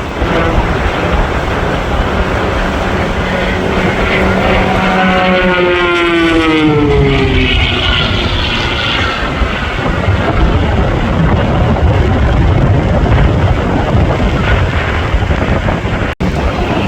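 Aircraft making a fast pass, its engine noise loud throughout, with a pitched whine that drops in pitch as it goes by, about five seconds in.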